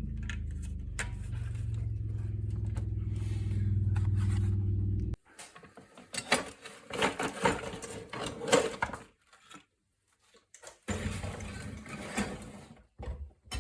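A steady low hum, like a motor running, stops abruptly about five seconds in. After it come intermittent scraping, clicking and clattering of small metal parts being handled.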